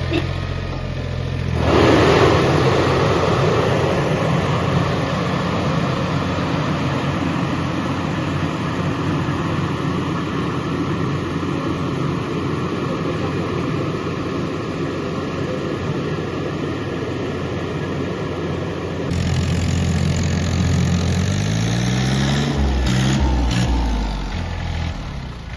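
Mahindra Oja tractor's diesel engine running, then picking up revs and running louder about two seconds in. It holds there until near the end, when it drops back to a lower, changing engine note.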